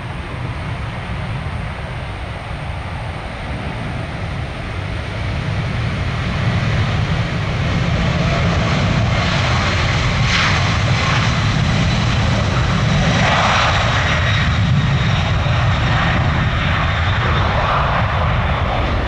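Airliner's jet engines passing overhead, a rumble that grows louder about six seconds in and stays loud, with a faint high whine over it in the second half.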